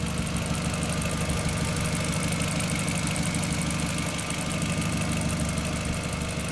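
Volkswagen Golf Mk4 GTI with a Borla aftermarket exhaust, engine idling steadily with no revs.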